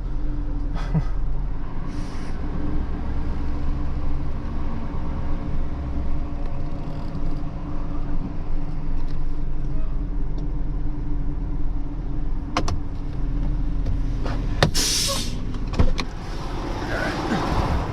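Tow truck engine running steadily as the truck is backed up, with a few sharp clicks and a short loud hiss about fifteen seconds in.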